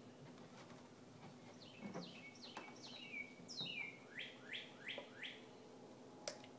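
A songbird singing: a quick run of clear, downward-slurred whistles, then four rising whistles.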